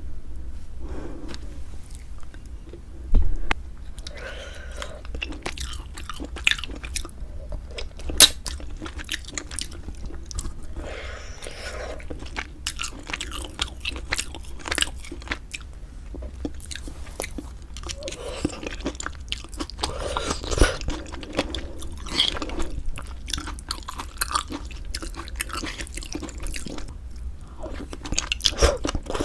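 Close-miked chewing and wet mouth sounds of eating pork-bone hangover soup with glass noodles: a dense run of small clicks and smacks, with two louder sharp clicks about three and eight seconds in.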